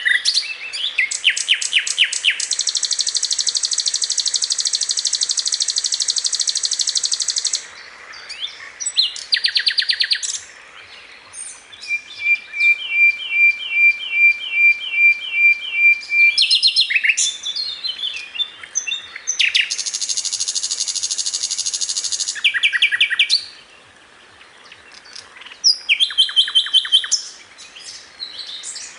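Sikatan londo flycatcher singing vigorously, a varied song of fast rattling trills, long buzzy stretches and a run of evenly repeated high notes, broken by short pauses.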